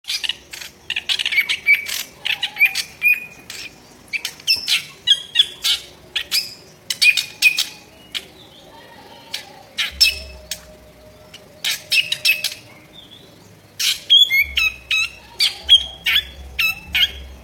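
A drongo singing in rapid, loud bursts of harsh, clicking and rasping notes mixed with short whistles, with brief pauses between phrases.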